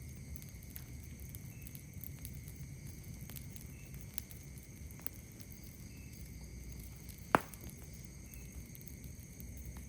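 Wood campfire crackling with sparse small pops and one sharp, loud snap a little past seven seconds in, over a steady high-pitched drone of night insects.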